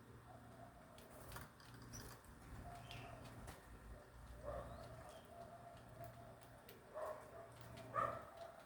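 Birds calling faintly, short pitched calls and a few higher chirps, more of them and louder near the end, over a steady low hum.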